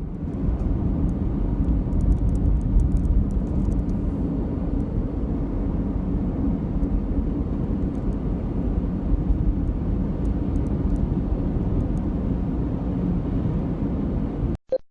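Steady road and engine noise of a moving car, a continuous low rumble that cuts off suddenly near the end.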